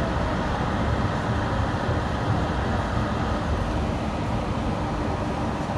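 Yurikamome rubber-tyred automated guideway train running, a steady rumble of rubber tyres on the concrete guideway with a faint steady hum.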